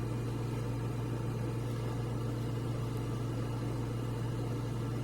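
Fan running with a steady low hum and an even hiss.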